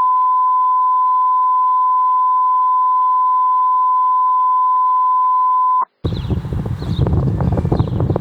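A steady 1 kHz test tone, one pure unchanging beep lasting about six seconds, that cuts off suddenly. It is followed by loud rough outdoor noise with a low rumble, like wind buffeting the microphone.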